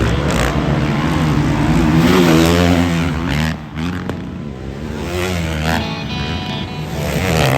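Motocross bike engines revving, the pitch rising and falling repeatedly with the throttle.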